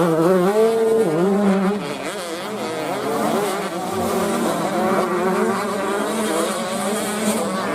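Several 125 cc two-stroke motocross bikes racing, their engines revving up and down over one another in a high buzz. One bike is loudest at first, rising in pitch and holding before dropping away about two seconds in.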